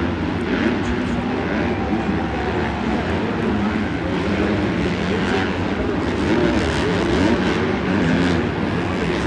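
Several dirt bike engines racing together, their pitches rising and falling in overlapping waves as the riders rev and shift.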